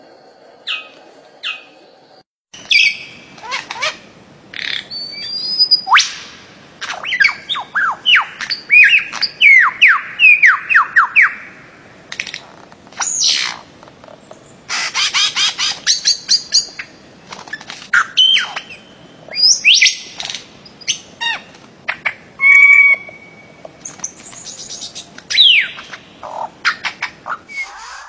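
Several birds calling: a few faint chirps, then, a couple of seconds in, loud squawks and quick series of sharp whistles that slide downward in pitch, a buzzy high chatter near the middle, and one short held whistle later on.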